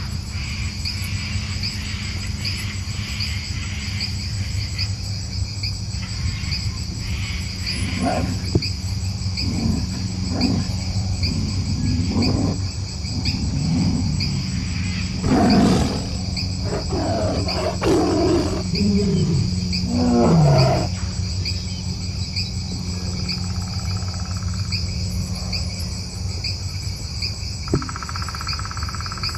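Steady chorus of insects, likely crickets, trilling throughout. From about eight seconds in, a series of low, wavering, gliding calls of unclear source rises over it, loudest near the middle, then stops about twenty-one seconds in.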